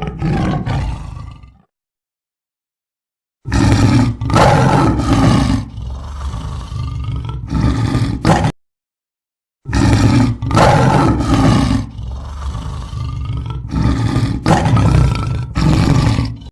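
A large animal roaring: two bouts of repeated deep roars, separated by about a second of silence.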